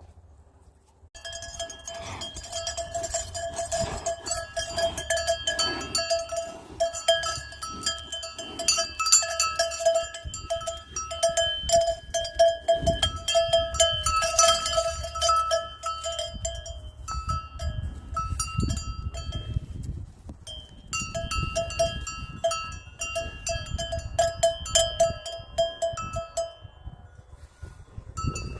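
Cowbells worn by cows clanking and jangling irregularly, many strikes a second with a ringing tone. The clanking starts about a second in and stops briefly twice, about two-thirds of the way through and again near the end.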